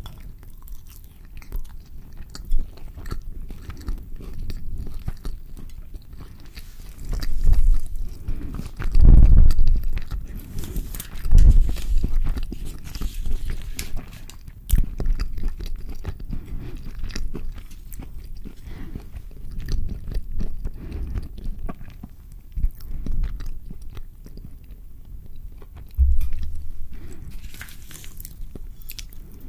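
Close-miked chewing of a carne asada burrito, a mouthful of flour tortilla and grilled beef, with small wet clicks of the mouth. Several heavier low thuds come and go at intervals.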